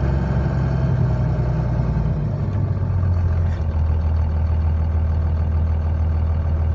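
Truck engine running steadily with a low hum that steps up slightly in pitch between about two and three and a half seconds in.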